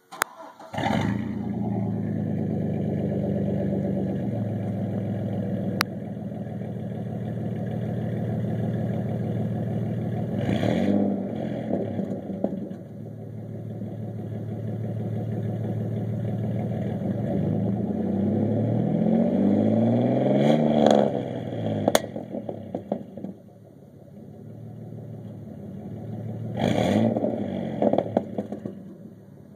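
A 4.3-litre V6 truck engine through a Flowmaster Series 10 muffler, with one of its two catalytic converters removed. It starts about a second in and runs at idle, blipped up about 10 seconds in, slowly revved up to a peak around 21 seconds, and blipped again near the end.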